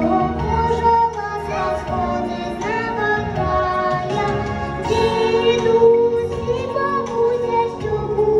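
A girl singing a song with musical accompaniment, holding a long note about five seconds in.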